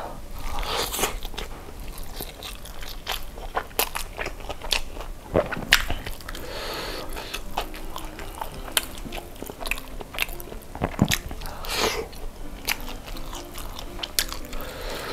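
Crunching and chewing of spicy fried chicken with a crisp coated skin: sharp, irregular crunches as the skin is bitten and torn, with chewing in between.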